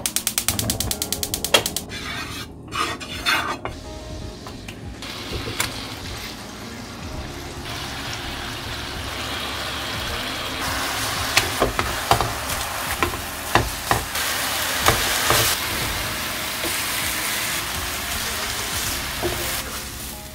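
Gas stove igniter clicking rapidly for about a second and a half. Then fish-cake sheets sizzle in a frying pan as their soy sauce and sugar glaze cooks down, with the knocks and scrapes of a wooden spatula turning them.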